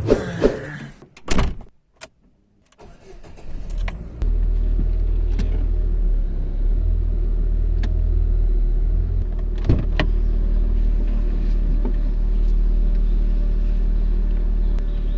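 A 2010 Chevrolet Corsa hatch's engine running at a steady idle, a constant low hum that sets in about four seconds in, after a few clicks and knocks of handling; a single sharp click sounds near the middle.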